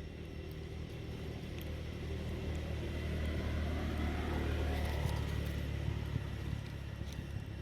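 A motor vehicle passing: a low engine rumble that builds to its loudest about four to five seconds in, then fades.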